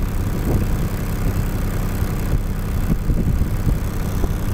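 Steady low engine drone, running evenly without revving.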